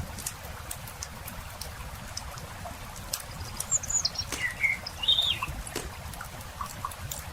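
Campfire crackling with frequent small sharp pops over a low steady rumble. A few short bird chirps come in about four to five seconds in.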